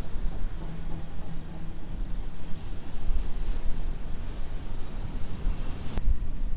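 Freight train rolling past, a steady rumble with a faint hum, changing abruptly about six seconds in.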